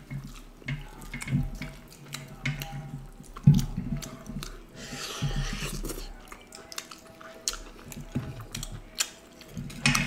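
Mouth sounds of eating by hand: chewing duck curry and rice-flour flatbread, with wet clicks and smacks throughout and a longer breathy sound about five seconds in.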